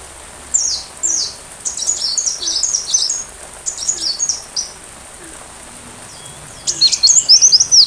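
Sunbird song: quick bursts of high, thin chirps and down-slurred notes, then near the end a louder, rapid run of repeated down-curving notes.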